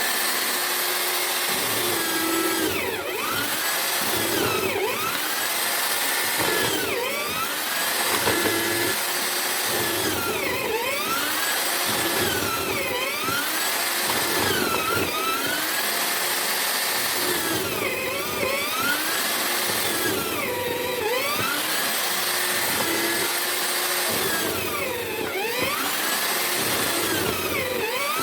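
Homemade drill-powered mortiser running and cutting a mortise in wood. The motor whine dips in pitch and recovers roughly every two seconds as the bit bites into the timber.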